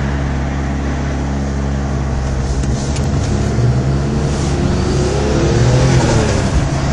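Engine of a BMW M3 fitted with an aftermarket turbo kit, heard from inside the cabin while driving: a steady note for the first few seconds, then climbing in pitch as the car accelerates from about halfway through.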